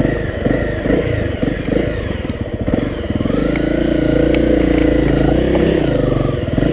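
Honda CRF250L's single-cylinder four-stroke engine on a trail climb: uneven, choppy running at low revs for the first three seconds, then revving up and holding steady higher revs, easing off near the end.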